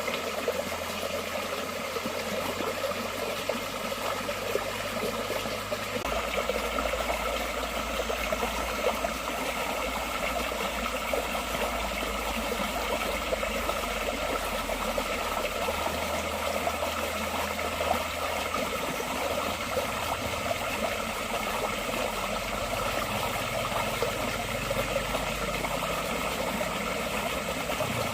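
Water flowing steadily in a forest stream. A low hum runs underneath and shifts in pitch a few times.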